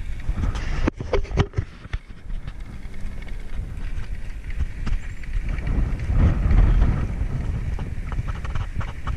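Bicycle clattering and rattling over rough ground, with irregular sharp knocks over a constant low rumble of wind on the microphone, which swells about six seconds in.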